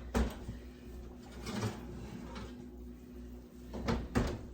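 A few short knocks and clatters over a steady low hum: one near the start, one in the middle and a quick pair near the end.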